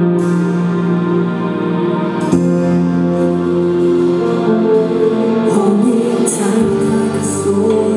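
Live pop band music played through a concert PA, with sustained chords that change about two seconds in.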